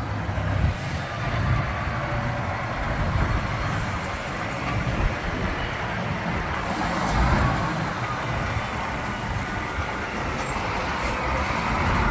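Heavy lorry's diesel engine running as it drives past, with road noise; the sound swells a little about seven seconds in.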